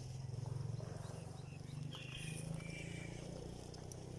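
A steady low rumble, with a few faint short high chirps from a bird about two seconds in.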